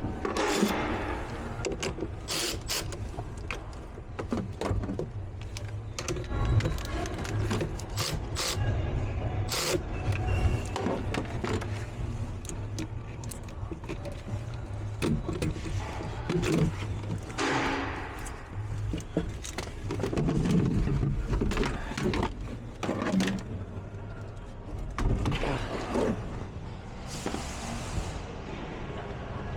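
Scattered clicks, knocks and clattering of hand work around the van, with a few longer scraping or rustling sounds, over a steady low hum.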